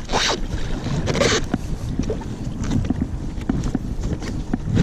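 Kayak paddle blades splashing and dipping in the water beside an inflatable kayak, with a brighter splash about a second in, over a steady low rumble on the microphone.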